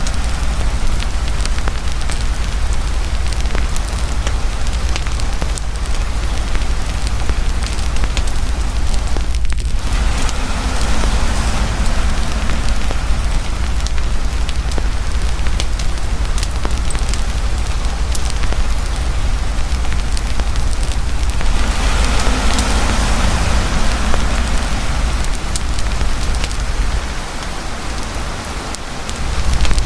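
Campfire crackling and popping under heavy, steady rain pouring down. The overall hiss dips briefly a few seconds before the end.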